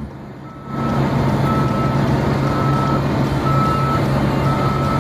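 A truck's reversing alarm beeping about once a second, each beep half a second long, over the truck's engine running steadily. The engine and beeping start after a short quieter moment near the beginning.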